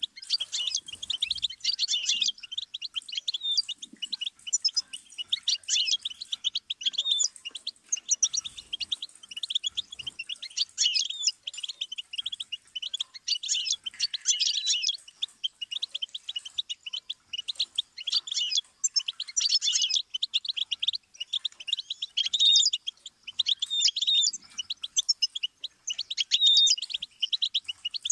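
Goldfinch singing: long, fast, high twittering phrases of rapid chirps and trills, broken by short pauses.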